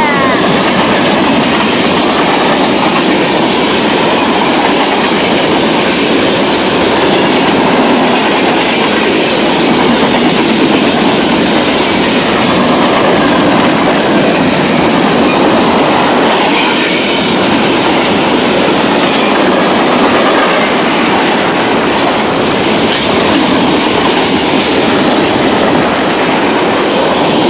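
Freight train of covered hopper and tank cars rolling past at close range: a loud, steady clatter and rumble of steel wheels on the rails, with no letup.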